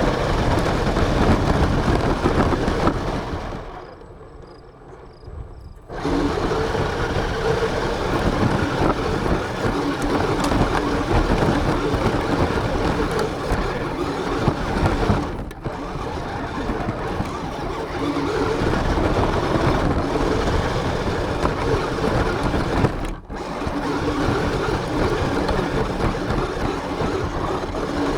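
RC car running, heard from a camera mounted on it: its motor and drivetrain whine over continuous rattling and rumbling as it drives over the ground. It goes quiet for about two seconds near the start and cuts out briefly twice later on.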